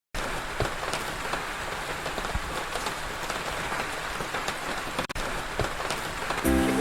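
Steady rain falling, an even hiss with scattered individual drops ticking. Music with a steady beat comes in near the end.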